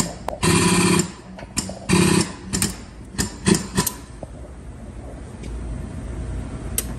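Short bursts of buzzing from a dent-pulling tool working on a car's quarter panel, several in a row with sharp clicks between them. They stop about four seconds in, leaving a low hum.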